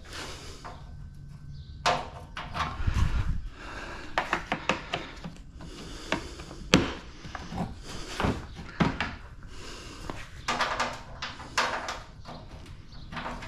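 Irregular knocks, clanks and scrapes of hand tools working on metal parts as a scrap item is taken apart, with a fastener being worked loose.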